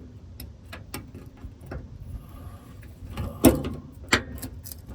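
Metal hand tools clicking and clinking as a socket extension is fetched and fitted, with two louder clanks about three and a half and four seconds in.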